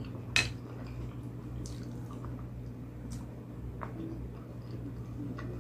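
Close-up mouth sounds of someone eating: wet, squishy chewing with small clicks, one sharp click about half a second in, over a steady low hum.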